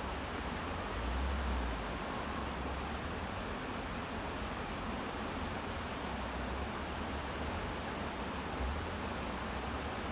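Wind buffeting the microphone in low rumbling gusts over a steady rushing hiss.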